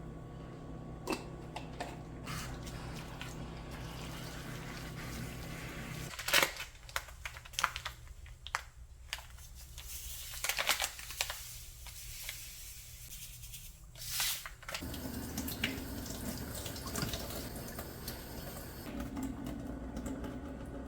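Kitchen tap water running into a sink, with sharp knocks and clatters of things being handled in it, between stretches of steady kitchen hum; the sound changes abruptly about six seconds in and again near fifteen seconds.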